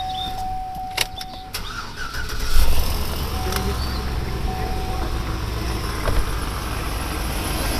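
A 2004 Chevy Suburban's 5.3-litre V8 is cranked by the starter and catches about two and a half seconds in, on the first try after a new battery went in to cure a no-start. It then settles into a steady idle.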